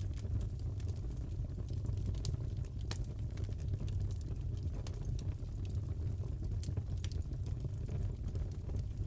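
Crackling fireplace: a steady low rumble of burning with scattered sharp pops and snaps from the fire.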